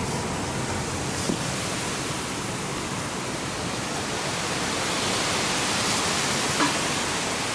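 Steady rushing noise of a car heard from inside the cabin while driving slowly: road and air noise, swelling a little past the middle, with a couple of faint ticks.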